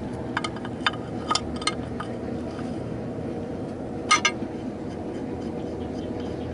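Several sharp metallic clinks of steel wheel-hub parts being handled, a cluster of them loudest about four seconds in, over a steady low hum.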